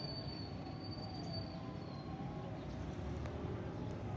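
Steady low rumble of distant vehicles, with a thin high whine that fades out about two seconds in.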